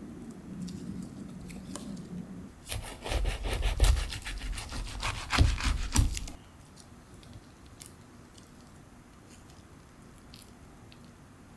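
A few seconds of quick rubbing and scraping strokes in the kitchen, ending in two knocks, then quiet room tone.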